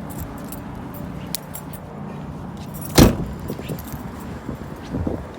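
Inside a car with a steady low hum from the running car, light jingling clicks scattered throughout, and one sharp loud knock about three seconds in.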